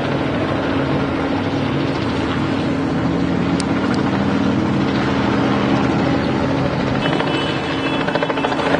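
Helicopters hovering overhead: a steady drone of rotor and engine noise with a constant low hum.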